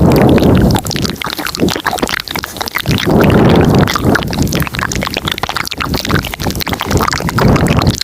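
Layered, close-miked ASMR mouth sounds: a dense stream of small wet clicks and smacks, with louder breathy gusts at the start, about three seconds in and near the end.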